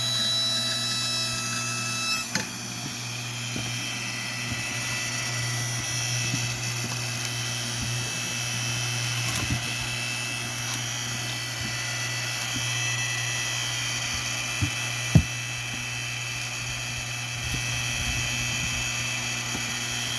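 Hydraulic log splitter running steadily, its power unit humming under a high, steady pump whine as the ram pushes a log against the wedge. A single sharp crack about fifteen seconds in as the wood gives way.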